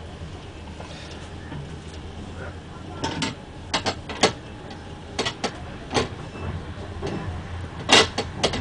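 Steady low rumble of a EuroCity passenger train running, heard from inside the carriage. From about three seconds in, a series of irregular sharp clicks and knocks cuts through it, the loudest near the end.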